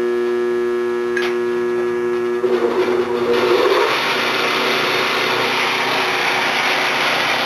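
Drill motor running with a steady hum, then about two and a half seconds in the bit starts cutting into the steel flywheel with a harsh, steady grinding noise, drilling a hole to lighten its heavy side for balance.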